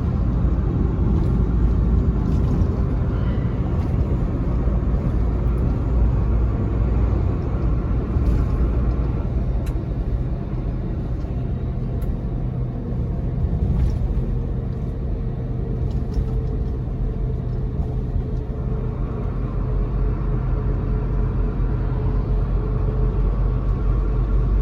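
Inside a moving truck's cab: a gas-powered truck engine and road noise make a steady low rumble. A faint tone comes up and rises slightly about two-thirds of the way through.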